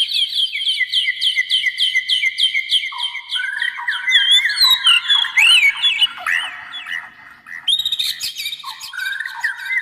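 Copsychus songbird singing: a fast run of repeated whistled notes, then varied, overlapping phrases with lower notes from about three seconds in, easing briefly before picking up again.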